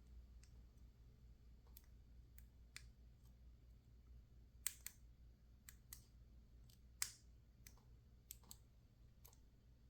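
Small metal tool clicking and scraping against a dimple padlock while prying for a way under its side cover: about a dozen faint, irregular clicks, the loudest about seven seconds in.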